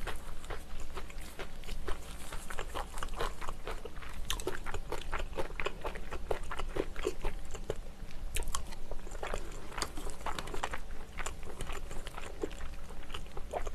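Close-miked chewing of a mouthful of rice, tofu and braised kimchi: a quick, continuous run of wet clicks and smacks.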